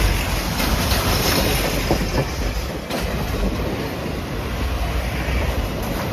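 Train cars of the Reading 2102 steam excursion rolling past at speed: a steady heavy rumble with the wheels clacking over the rail joints.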